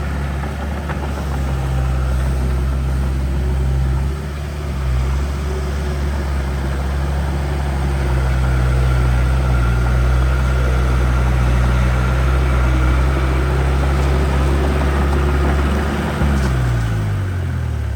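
Heavy diesel engine of earthmoving equipment running steadily at a low pitch, dipping briefly about four seconds in. Near the end its pitch falls as the engine slows down.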